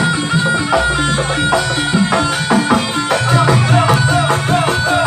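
Javanese barongan accompaniment music: drums and struck percussion in a fast, even, repeating rhythm over sustained tones.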